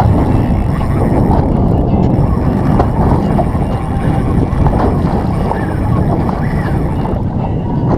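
Wind buffeting the microphone over choppy water slapping against a small boat's hull, a steady, loud rushing.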